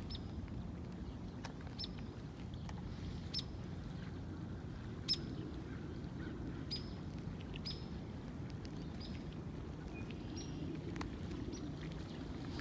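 Short high chirps from a small bird, repeated roughly every one to two seconds, over a steady low outdoor rumble.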